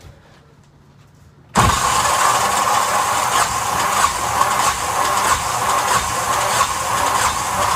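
Yanmar SB12 single-cylinder marine diesel being cranked by its starter motor, kicking in suddenly about a second and a half in and turning over steadily with a regular beat. It has not yet caught, as fuel starvation after a dead stall is still being bled out of the fuel lines.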